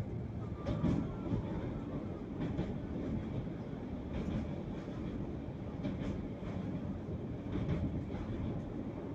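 Express passenger train running at speed, heard from inside a coach: a steady rumble of wheels on rail, with a clack from a rail joint about every second and a half. About halfway through the train runs onto a steel truss bridge.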